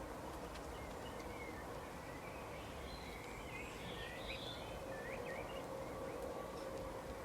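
Birds chirping in short, quick up-and-down notes, clustered a few seconds in, over a steady background hiss with a faint low hum.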